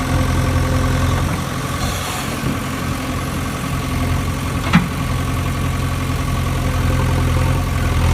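Heavy engine idling steadily, like a tractor or backhoe loader, with a single sharp click about five seconds in.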